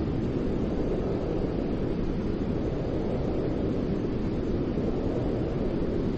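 Continuous white noise for baby sleep, a steady, unchanging rush that is heavy and deep rather than hissy, with no rhythm or breaks.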